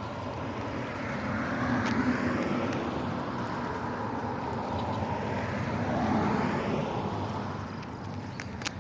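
Motor vehicle noise passing by, swelling twice over several seconds and fading near the end.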